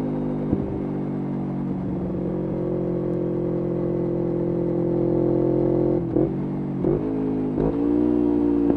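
2011 Kawasaki Ninja 250R SE's parallel-twin engine through a full Graves racing exhaust, running at fairly steady revs under way. Near the end the exhaust note breaks three times in quick succession, each time coming back a little lower in pitch.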